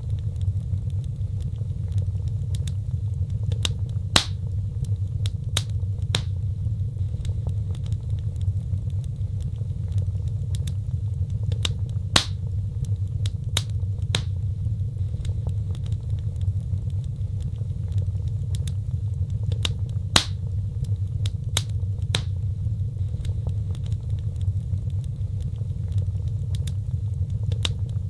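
Wood fire burning: a steady low rumble of flames with irregular sharp crackles and pops, three of them louder snaps about eight seconds apart.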